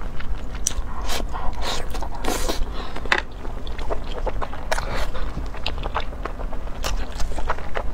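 Close-miked chewing of saucy food: many short wet clicks and smacks from the mouth as a mouthful is bitten and chewed.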